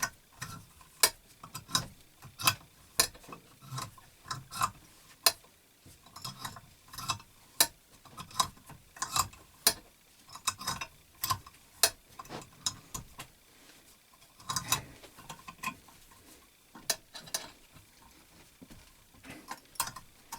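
Irregular light clicks and knocks from hand-tool work on metal parts during belt grinder maintenance, about one or two a second with no steady rhythm.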